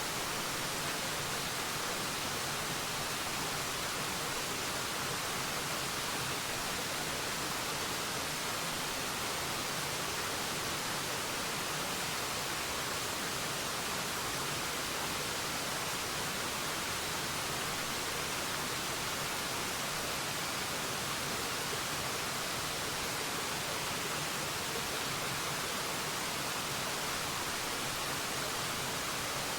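Forest waterfall: a steady, unchanging rush of falling water, an even hiss with no distinct splashes.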